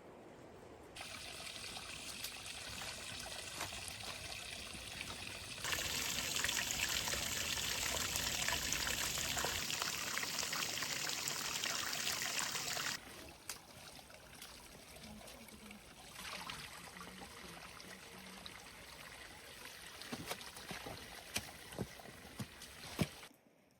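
Water trickling and running, loudest for several seconds in the middle, with a few sharp clicks near the end.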